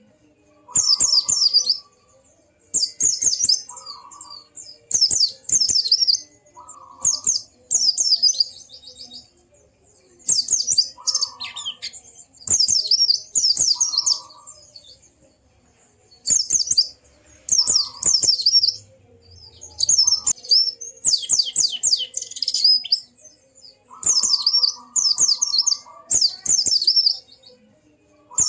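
A white-eye (pleci) singing in bursts of rapid, high, warbling notes. Each phrase lasts about a second, and they repeat with short gaps between them. Some phrases come with a lower, shorter call alongside.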